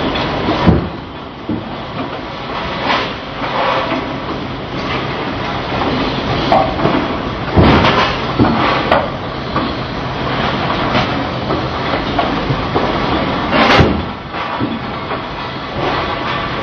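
Factory production-line machinery running with a steady low hum, broken by several sharp knocks, the loudest about a second in, near the middle and near the end.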